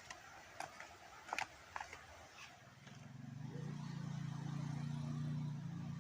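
A few faint clicks, then a low engine hum that swells in about halfway through and holds steady.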